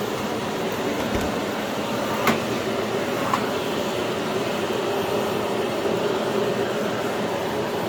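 Philips PowerPro FC9331/09 900 W bagless vacuum cleaner running steadily, a constant rushing noise with a faint hum. A couple of brief clicks come about two and three seconds in.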